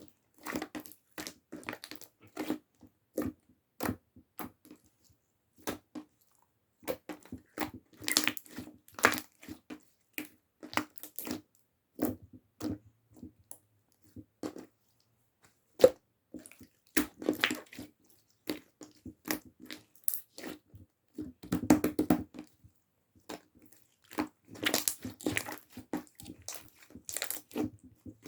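Slime being squeezed and pressed by hand, making irregular sticky clicks, pops and crackles in clusters.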